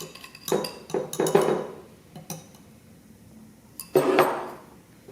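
A utensil clinking and scraping against a mug and mixing bowl while batter is spooned from one into the other, in a few short bursts of knocks and scrapes with pauses between.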